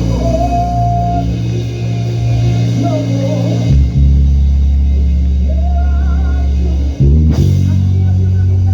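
Praise music played live: a bass guitar holds long, loud low notes that change about a third and again about two thirds of the way in, with guitar, drums and a singing voice above.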